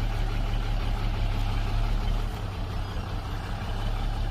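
Heavy diesel earthmoving engine running steadily under load, a deep even drone.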